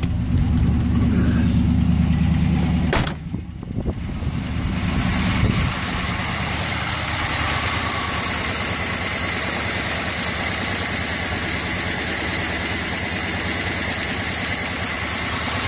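Carbureted small-block Chevy V8 with a Quadrajet idling on the choke's fast idle, just over 1,000 rpm, shortly after a cold start in deep cold. A thump about three seconds in breaks the sound, and from about five seconds the engine runs steadily with more hiss.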